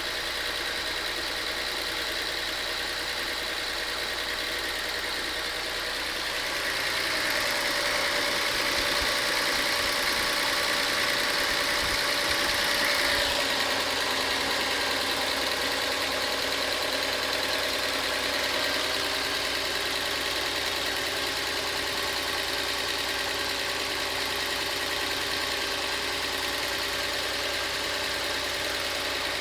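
Volkswagen Passat engine idling with a clicking noise that began after a timing job; the owner is unsure whether it is a timing fault or lifter tick. It gets somewhat louder for several seconds near the middle.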